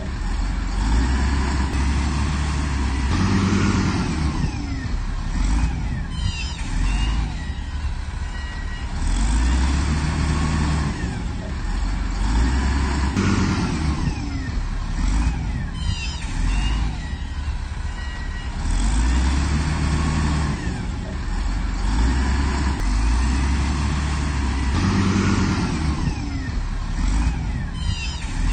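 Heavy earthmoving machine's diesel engine working under load, revving up and easing off in repeated cycles about every five to six seconds, with occasional high metallic rattling.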